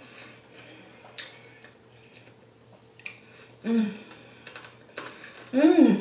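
Close-up mouth sounds of chewing a crispy chicken wing: scattered sharp crunches and wet mouth clicks, with two short pleased hums, one about two-thirds of the way in and one at the end.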